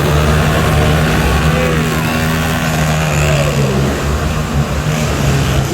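Monster truck engine running loudly with a steady low drone.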